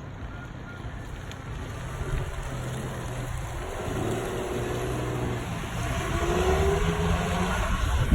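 Ford Explorer Sport Trac's 4.0-litre V6 engine running, its pitch climbing from about halfway as it revs or accelerates, growing steadily louder.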